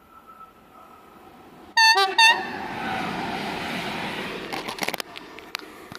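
Electric locomotive sounding two short horn blasts as it approaches, then the rushing noise of it passing close by, with a quick run of clicks near the end.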